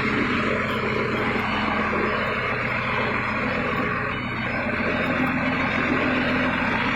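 Steady, unvarying drone of a large diesel truck engine running.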